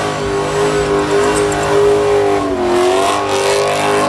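A car engine held at high, steady revs during a burnout, dipping briefly about two and a half seconds in before climbing back up.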